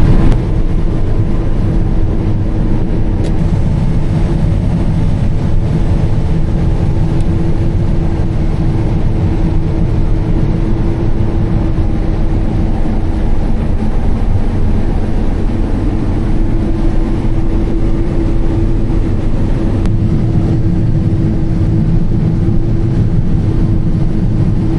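John Deere combine running steadily while harvesting soybeans: a constant engine and threshing drone with a steady whine over a heavy low rumble.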